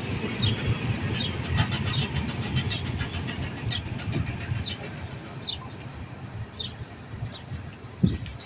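Union Pacific train rolling by: a low rumble that slowly fades, with short high falling chirps about once a second and a sharp thump near the end.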